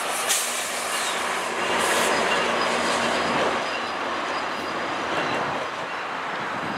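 GO Transit commuter train, a diesel locomotive hauling bilevel coaches, passing by with a steady rumble of wheels on rail. A few sharp clacks sound as the wheels cross rail joints, the first right at the start and more about two seconds in, over a faint high wheel squeal.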